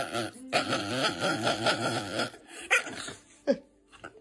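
A dog vocalising: a wavering, drawn-out sound lasting nearly two seconds, then two short sharp sounds about a second apart.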